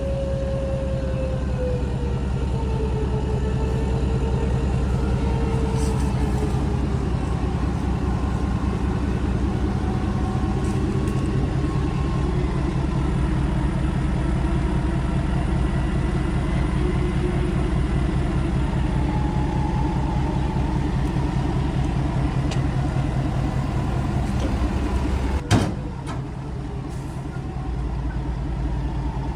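Pickup engine running steadily while a Badlands 12,000 lb electric winch pulls a loaded dump truck slowly under heavy load. The whine slides down in pitch over the first few seconds. A single sharp knock comes near the end, and the sound drops after it.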